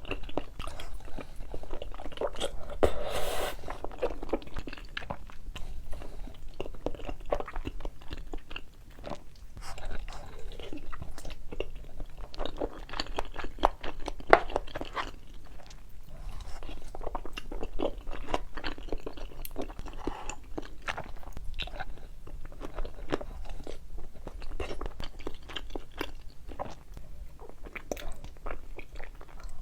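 Close-miked eating: a person biting into and chewing crunchy, cheesy food, with dense, irregular crunching and mouth clicks, loudest about three seconds in.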